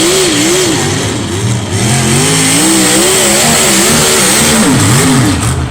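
Pulling tractor's engine running hard at high revs under load, its pitch surging up and down again and again as the revs rise and fall. The sound is loud, and the revs drop away near the end.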